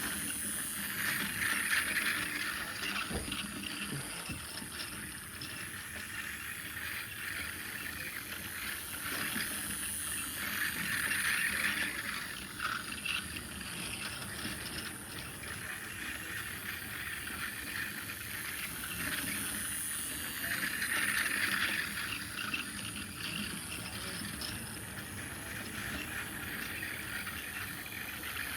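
Two small model trains running around their track, small electric motors whirring and gears and wheels clicking. The sound grows louder about every nine to ten seconds as a train passes close by.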